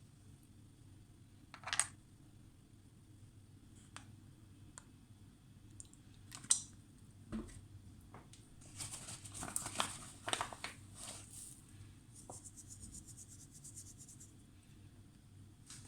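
Kitchen food-preparation handling sounds: scattered light clicks and knocks, a few seconds of scratchy rustling and scraping about two-thirds of the way through, then a fast, fine ticking scrape.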